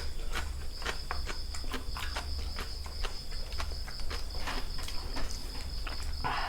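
Close-up eating sounds: irregular crisp clicks and crunches of chewing, over a steady high-pitched tone.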